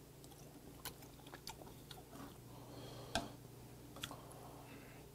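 Faint close-miked chewing of a mouthful of boiled hagfish, with a few sharp wet clicks scattered through it.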